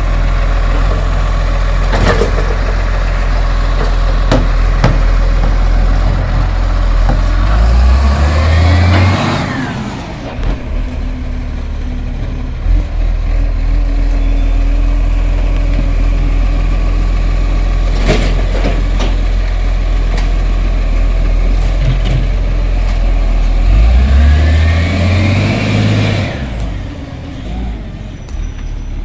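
Garbage truck engine idling, then revving up twice, about 16 seconds apart, each time for a few seconds, as it drives the hydraulic arm that lifts and empties a bin. There are sharp knocks, about two seconds in and again at about eighteen seconds.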